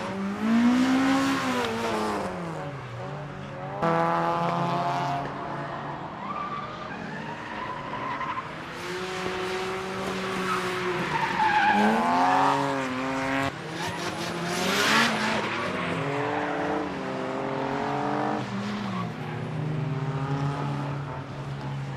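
Several car engines revving hard and dropping back, pitch swooping up and down as the cars drift past, with tyres skidding and squealing. The sound changes abruptly about four seconds in and again just past halfway.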